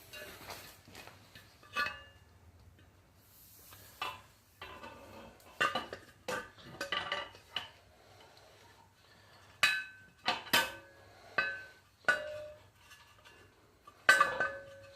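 A steel axle shaft going into a Suzuki Carry rear axle housing. It gives irregular metallic clinks and knocks with a brief ringing after each one, about ten in all, loudest near the end.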